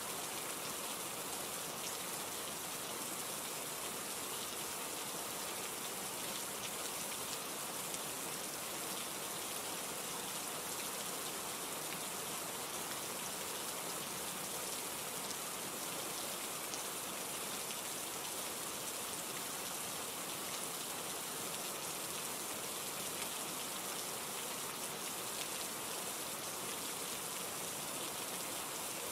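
Steady rain falling, an even hiss of many drops that never lets up.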